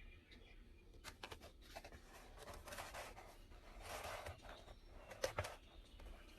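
Close-up paper and notebook handling: soft rustling, sliding strokes with scattered light clicks, and two sharp clicks in quick succession a little over five seconds in.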